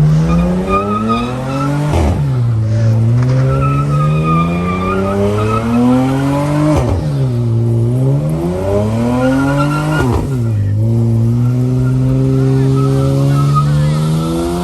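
Car engine revving hard and held at high revs, its pitch dropping sharply about three times and climbing again each time, with tire squeal.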